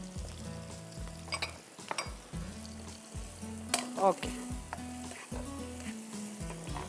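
Crushed garlic and ginger julienne sizzling in hot oil in a nonstick wok as a spatula stirs them, with a few sharp clicks of the spatula against the pan.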